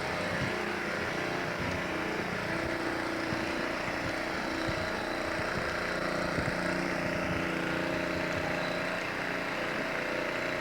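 An engine running steadily at an even pitch, a constant hum.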